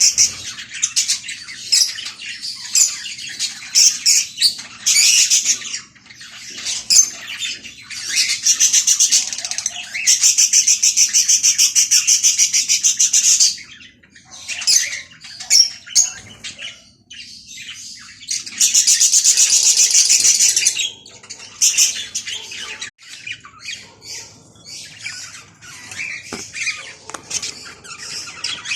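Budgerigars chirping and squawking in quick, irregular calls. Two long, harsh rasping calls of a few seconds each stand out, one about a third of the way in and another about two-thirds through.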